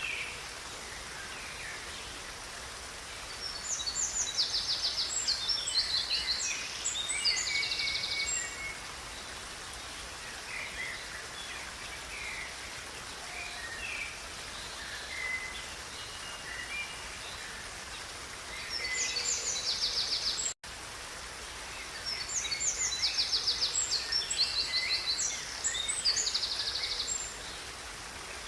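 A river's steady rushing water with songbirds singing over it. Two long bursts of fast, rattling, high-pitched song phrases come about 4 s in and again from about 22 s, with softer scattered chirps in between. There is a brief dropout about 20 s in.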